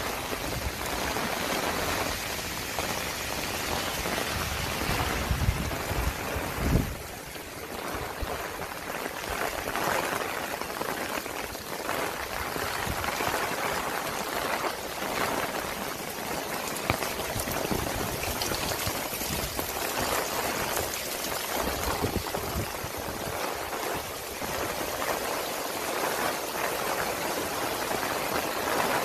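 Heavy rain pouring down onto pavement and a wet road. Near the end, floodwater rushes through a grated concrete drainage channel.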